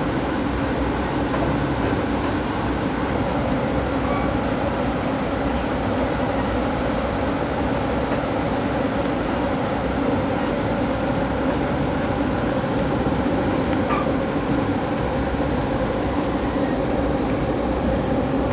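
Steady rumble and hiss of a train running along the rails, heard from inside the passenger car.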